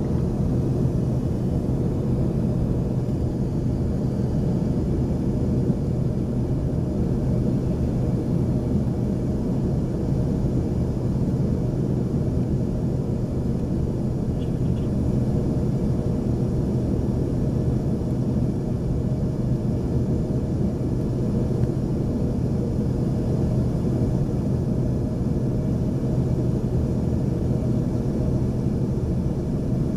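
Steady cabin drone of an Embraer ERJ-140 regional jet climbing after takeoff: engine and airflow noise heard from inside the cabin, mostly low rumble with a constant low hum.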